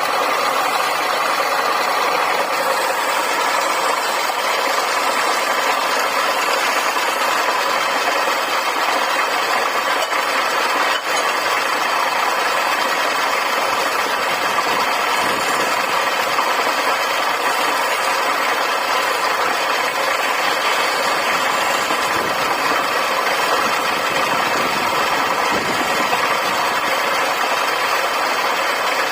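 Wood lathe running steadily, its motor keeping an even mechanical drone with a brief dip about 11 seconds in.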